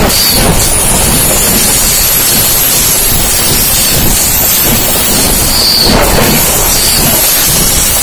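Passenger train coaches rolling directly over a camera between the rails: a loud, steady, close-up rumble and roar of wheels on the track passing overhead.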